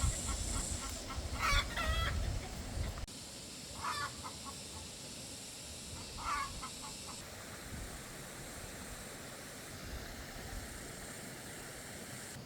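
A chicken clucking three times, about two seconds apart, the first the loudest, over a steady hiss that drops away about seven seconds in.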